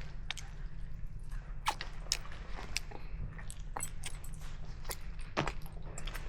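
People eating a meal: chewing and biting food, with irregular small clicks.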